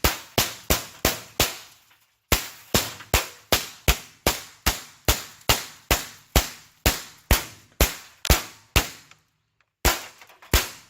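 Rapid semi-automatic .22 LR gunfire, about two to three sharp cracks a second. There are five quick shots, a short pause, then a long string of about sixteen, and two last shots near the end.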